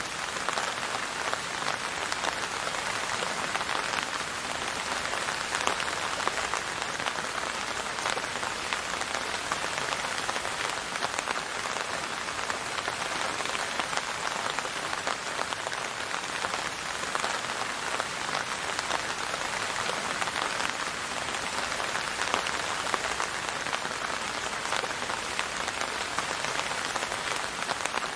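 Steady rain falling and pattering on a surface, a dense even hiss with many fine drop ticks and no thunder.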